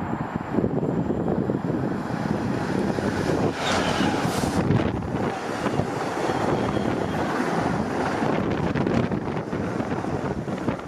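Freight train passing, a steady noise of wheels on rail, with wind buffeting the microphone.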